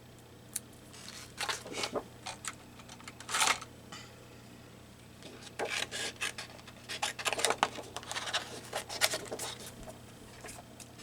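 Scissors cutting paper in short snips, in two runs: one ending about four seconds in, the other starting a little after five seconds and running until near the end.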